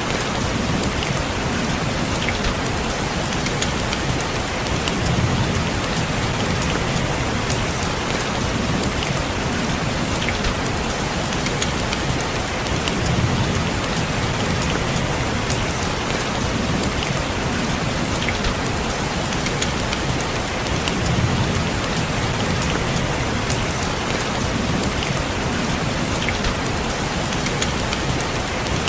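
Steady rain falling on a window, with fine ticks of single drops. A low rumble swells and fades about every eight seconds.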